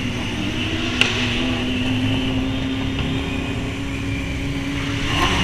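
Motorcycle engine running at a steady speed, with a single sharp click about a second in.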